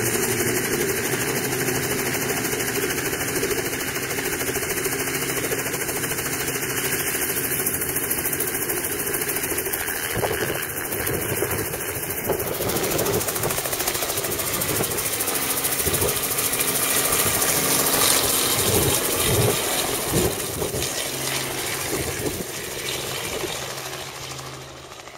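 Robinson R44 helicopter's six-cylinder Lycoming piston engine and rotor running steadily, growing louder past the middle as it takes off, then fading away near the end as it departs.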